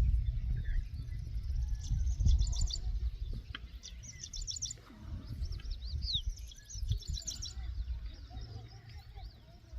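Small birds singing: short, rapid high trills repeated every second or two, with a few sweeping calls between them, over a steady low rumble.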